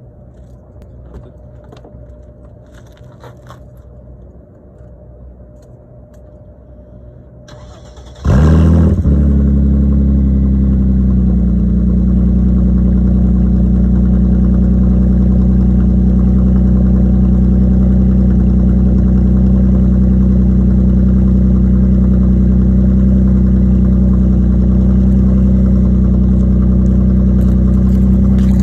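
Straight-piped Mercedes-Benz W210 E320's V6 starting about eight seconds in after a quiet stretch, flaring briefly on catching, then settling within a few seconds into a steady, loud idle.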